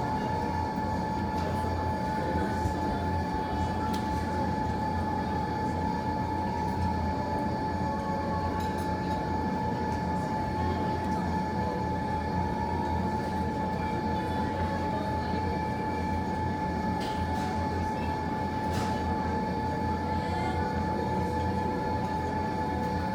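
Steady low rumble with a constant whine running over it, from a fireplace fire and ventilation or machinery hum in the room. Only a few faint crackles come through.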